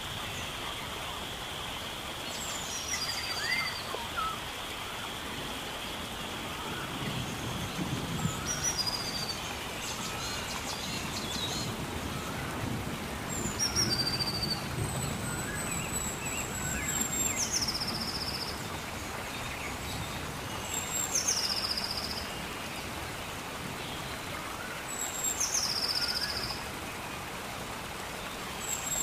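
A bird calling over and over, about every four seconds: each call a high note that slides down and then holds steady. Under it is a steady outdoor hiss, and a steady high drone fades out in the first few seconds. Low rustling comes and goes in the middle.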